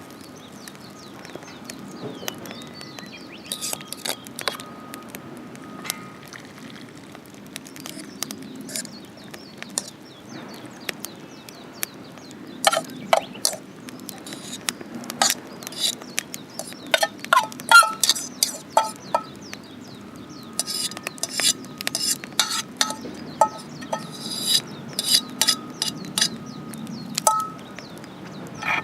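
Metal cookware and utensils clinking and scraping, with clusters of sharp clinks, busiest in the second half.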